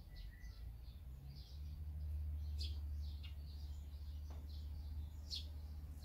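Small birds chirping in short, scattered high calls, with two sharper chirps, over a steady low rumble that grows stronger about one and a half seconds in.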